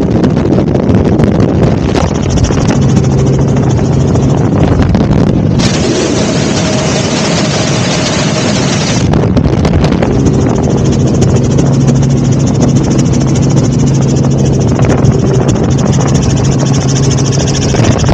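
Helicopter engine and rotor noise, loud and steady with a low hum. A brighter rushing hiss rises for about three seconds near the middle, then drops back.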